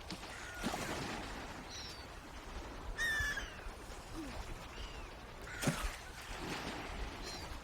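Birds calling over a steady outdoor background hiss: scattered short, curved chirps, with a louder, ringing call about three seconds in and another sharp call a little before six seconds.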